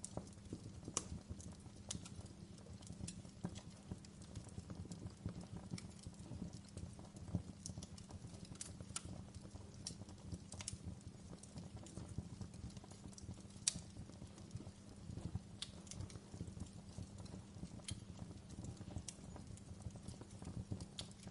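Wood fire burning in a fireplace: a steady low rumble of flames with irregular sharp crackles and pops, one louder pop about two-thirds of the way through.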